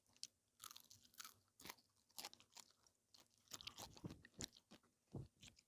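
A person chewing food with soft, irregular crunches and wet mouth clicks, heard up close.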